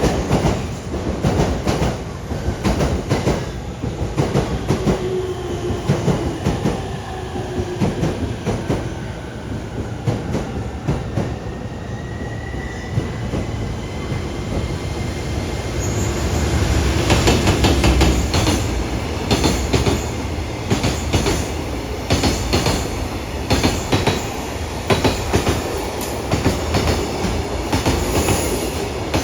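Freight train of an EF210-300 electric locomotive and container flatcars passing at speed: a continuous rapid clatter of wheels over rail joints, with thin wheel-squeal tones in the first half and a louder stretch a little past halfway.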